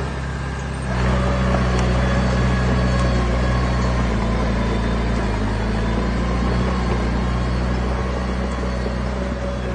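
Heavy diesel machinery engine running steadily, growing louder about a second in.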